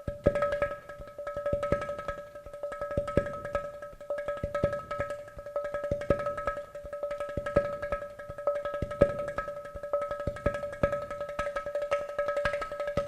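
Ghatam (clay-pot drum) music: quick, irregular strokes over a steady held drone note.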